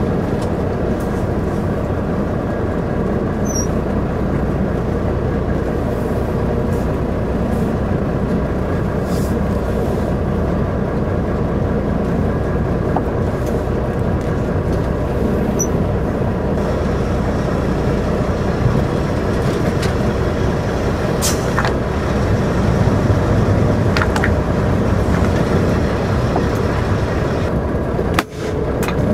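Semi-truck's diesel engine running steadily, with a few light clicks over it; the sound dips briefly near the end.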